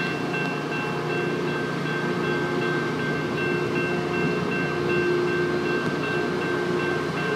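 Tri-Rail commuter train pulling slowly out of a station, its BL36PH diesel locomotive running with a steady rumble and several steady whining tones, some of them pulsing on and off at an even rate.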